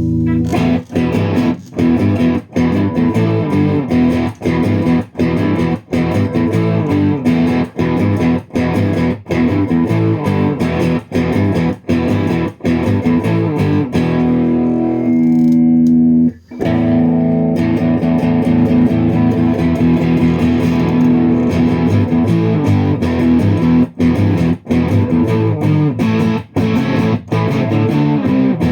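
Stratocaster electric guitar with a Tonerider Birmingham pickup, played through the VLA Green Spirit pedal into a Mesa Boogie Rectifier's clean channel. It plays a busy phrase of picked notes and chords with short breaks. About halfway through it holds one note, stops briefly, then carries on playing.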